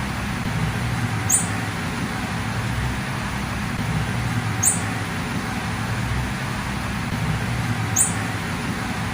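Female blue-black grassquit giving its short, high 'fit' call three times, evenly spaced about three seconds apart, each a quick downward flick in pitch. A steady background hiss and low hum runs underneath.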